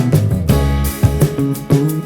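Background music: a strummed acoustic guitar with a steady beat and bass.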